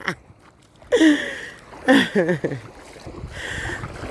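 Two short wordless vocal sounds from a woman, about a second apart, then a low rumble of wind on a phone microphone with the wash of surf behind it.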